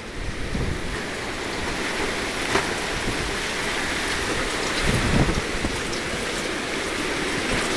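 Steady rain falling, an even hiss, with a low rumble underneath that swells briefly about five seconds in.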